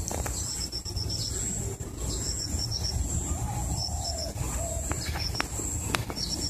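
Small birds chirping in short, quick runs of high notes, over a steady high-pitched hiss and a low rumble.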